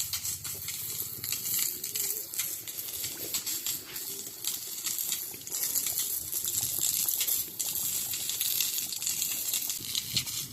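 Maandazi dough deep-frying in hot oil: a steady high sizzle dotted with many rapid crackles.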